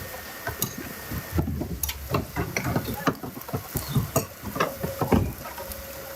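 Irregular clicks, taps and scraping of cooking utensils being worked, with faint voices in the background.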